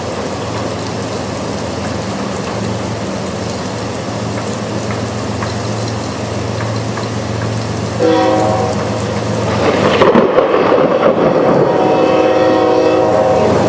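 A diesel locomotive's horn sounds a short blast about eight seconds in and a longer one near the end, over the steady low hum of the train and the hiss of rain. About ten seconds in, a loud crash of thunder breaks over it.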